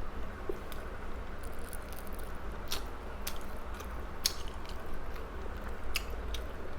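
Close-miked chewing of tender grilled chicken, with a few sharp clicks and smacks scattered through it over a steady low hum.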